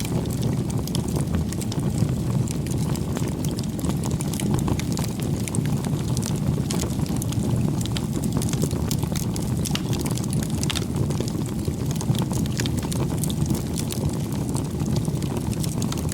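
Wood campfire burning: a steady low rumble from the flames with frequent small, irregular crackles and pops.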